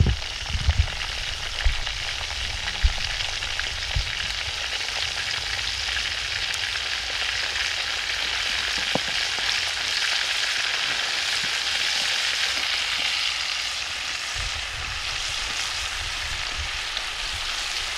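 Venison steaks sizzling steadily in a hot pan, with a few low knocks in the first few seconds.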